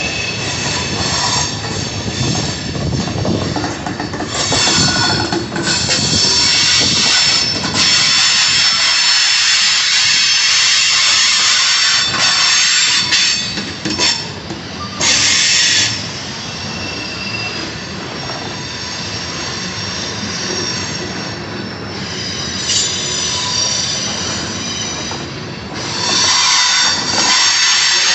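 Freight cars rolling past on steel wheels, with the wheels squealing in several high, shifting tones over the rumble of the train. The squeal swells louder for long stretches, eases off for several seconds past the middle, then rises again near the end.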